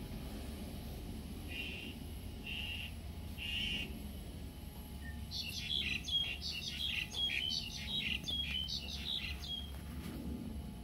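A bird calling: three short, even notes, then a quick run of chirps about halfway through.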